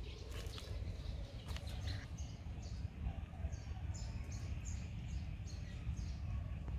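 A small bird chirping: short, high notes repeated two or three times a second, starting about two seconds in and stopping near the end. Under it runs a steady low rumble, with a few clicks in the first two seconds.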